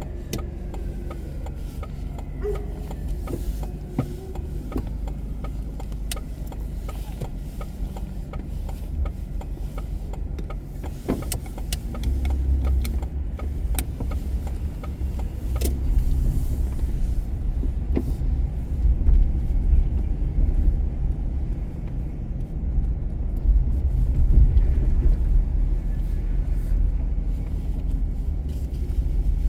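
Moving car's low road and engine rumble, growing louder about twelve seconds in, with scattered small clicks and knocks.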